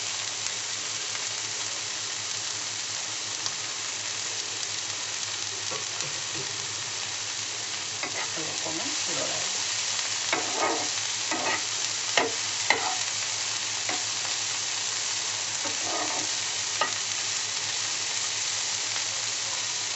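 Boiled sweet corn kernels frying in butter with onion and tomato in a nonstick wok, sizzling steadily. A wooden spatula stirs them, scraping and knocking against the pan several times in the middle and once more later on.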